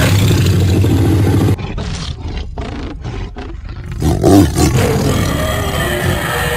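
Cartoon lion's roar: a loud, rough roar that drops after about a second and a half into short rasping pulses, then surges again about four seconds in.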